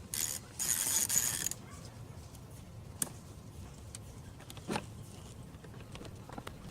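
Hands working the plastic engine air filter housing: about a second and a half of scraping and rubbing of plastic on plastic, then two sharp clicks, one about three seconds in and one near five.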